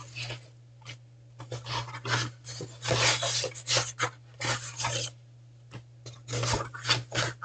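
Packaging being handled and opened by hand: a series of short, irregular rustling and scraping sounds.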